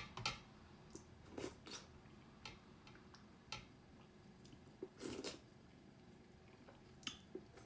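Faint close-miked eating sounds: scattered chewing and wet mouth clicks at irregular intervals as finger-millet dhido with chicken curry is eaten.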